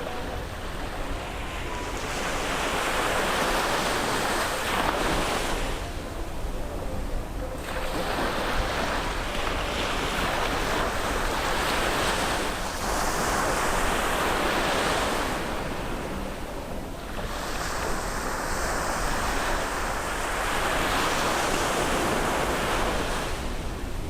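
Sea surf breaking and washing up a beach, in about four swelling surges a few seconds each, with wind rumbling on the microphone underneath.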